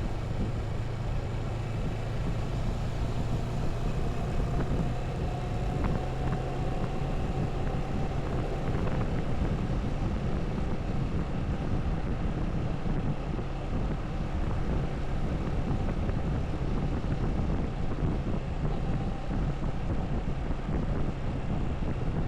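Motorcycle running at a steady cruising speed, its engine a steady low hum under a constant rush of wind and road noise.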